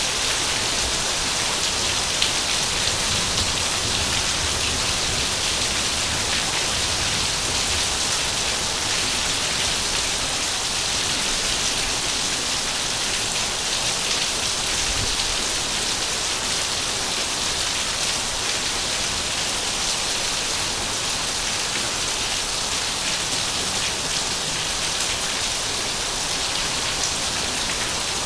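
Heavy rain falling steadily, a dense even hiss of drops with faint individual ticks.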